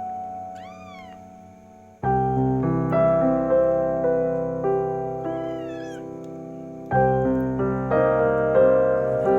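Soft piano background music with held chords, fresh notes struck about two seconds in and again near the end. Over it a kitten meows twice, short high cries that rise and fall.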